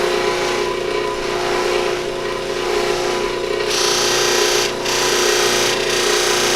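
Electric buffer running with a steady motor hum, and the hiss of a lathe-turned deer antler pen blank held against its Tripoli-charged buffing wheel. The hiss grows louder from about four seconds in, with two brief breaks as the piece is lifted off the wheel.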